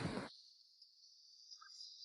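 A word of speech ends just after the start, then a faint, steady, high-pitched hiss or chirring with no clear rhythm.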